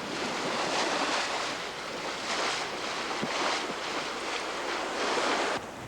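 Sea rushing and breaking around a sailboat running fast through big swells, with wind buffeting the microphone. The rush swells and eases every second or so, then drops off abruptly near the end.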